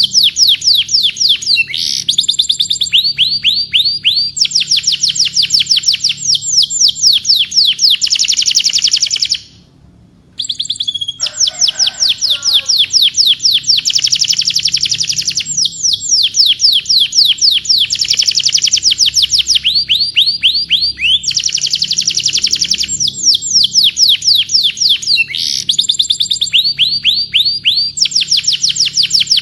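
Domestic canary singing: long rolling trills of rapid repeated notes, each sweeping downward in pitch, one trill running straight into the next. The song breaks off for a moment about ten seconds in, then resumes.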